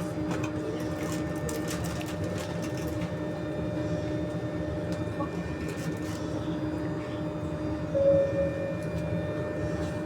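Inside an NS-93 metro car: the steady rumble and hum of the train. A brief, louder tone comes about eight seconds in.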